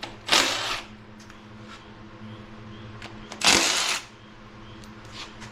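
Two short bursts of a power tool, each about half a second, a few seconds apart, over a steady low hum.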